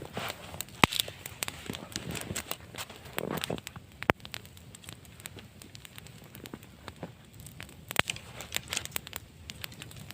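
Wood fire crackling, with irregular sharp pops.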